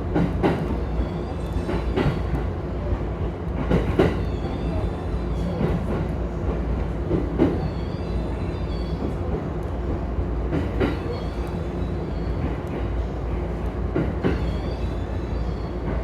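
Electric commuter train moving through the station: a steady low rumble with a few sharp clacks of wheels over rail joints and points, one every couple of seconds.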